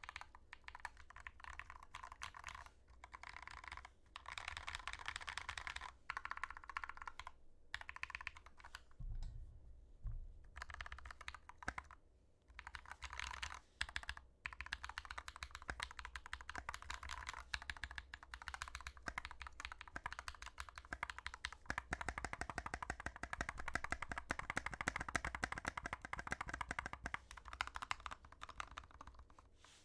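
Mechanical keyboard with lubed Glorious Panda tactile switches being typed on: a steady clatter of keystrokes, broken by short pauses about a third of the way through. About three-quarters of the way in, a spell of faster, denser typing.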